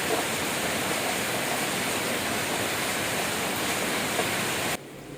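Steady rush of heavy rain, an even hiss with no distinct thunder peaks, cutting off suddenly near the end.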